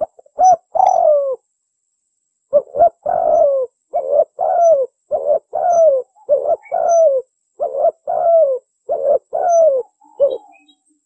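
Spotted dove cooing: a quick pair of coos, a short pause, then a rapid run of about ten more. Each coo is a short note followed by a longer, falling one.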